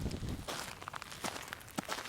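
Footsteps of someone walking, a series of short steps, with low wind rumble on the microphone that dies away about half a second in.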